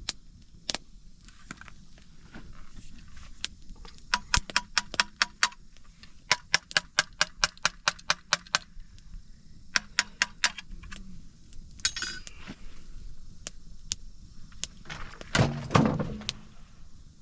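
Metal tapping on metal in quick runs of ringing clinks, about five or six taps a second, stopping and starting three times. Near the end comes a louder scraping rustle.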